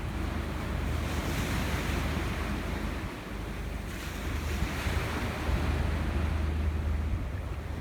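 Sea waves washing in and out in swells, with wind rumbling on the microphone.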